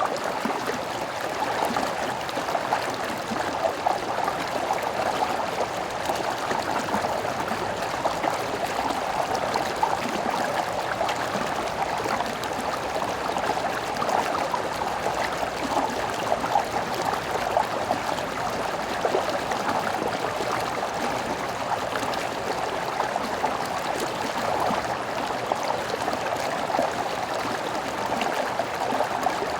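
Stream water flowing steadily, a continuous even babble of running water with no change.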